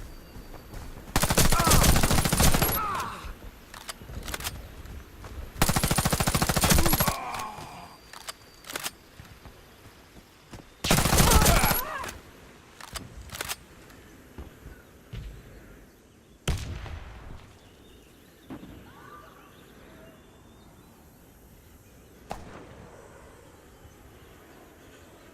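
Three bursts of rapid automatic gunfire, each lasting one and a half to two seconds, followed by a few scattered single shots that ring out briefly.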